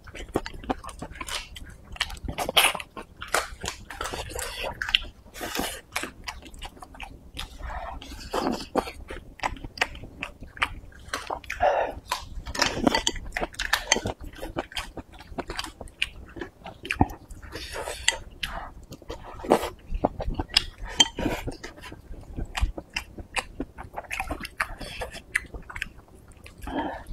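A person chewing and eating close to a clip-on microphone: a steady run of wet chewing, mouth smacks and short clicks as he eats mouthfuls of rice and stewed meat and greens.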